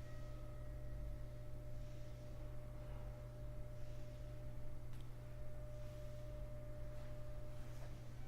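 Sapporo Municipal Subway 8000 series train standing at a station platform: a steady low electrical hum with a thin steady tone held above it, fairly quiet.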